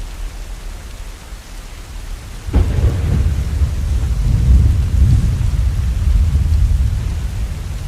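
Steady rain falling; about two and a half seconds in a sudden clap of thunder breaks into a deep rumble that rolls on for several seconds and slowly fades.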